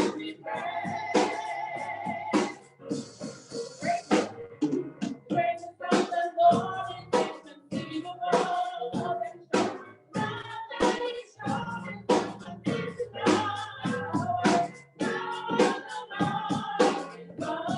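A church music ensemble singing a praise song with instrumental accompaniment, punctuated by frequent sharp percussive hits.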